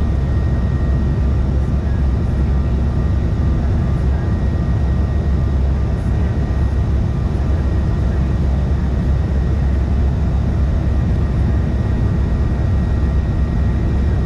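Steady cabin noise of a CRJ-550 regional jet in flight: a deep rumble of airflow and engines, with a few thin, steady whines from its rear-mounted GE CF34 turbofans.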